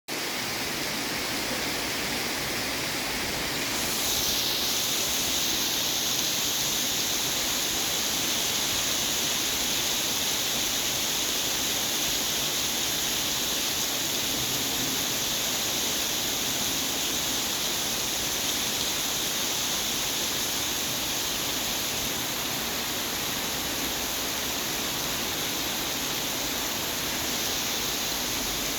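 Heavy rain pouring down in a steady hiss, growing a little louder about four seconds in.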